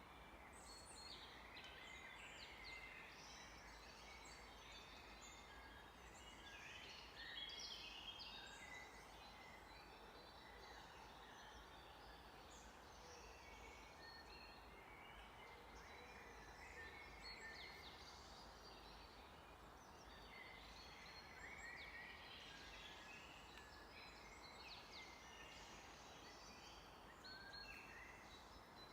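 Several songbirds chirping and singing together, faint, with short overlapping calls and trills all through.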